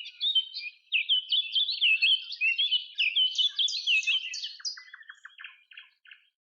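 A songbird singing a fast, varied run of chirps and trills that fades out near the end.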